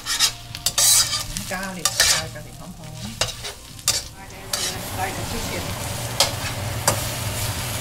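Chicken of the woods mushrooms frying and sizzling in a pan while a utensil stirs them, knocking and scraping against the pan in a run of clicks over the first few seconds, then settling into a steady sizzle with a few clicks. A steady low hum runs underneath.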